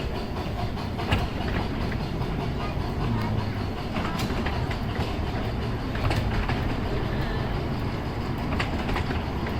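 Miniature railway train running on the track: a steady low rumble with irregular clicks and knocks from the wheels over the rail joints.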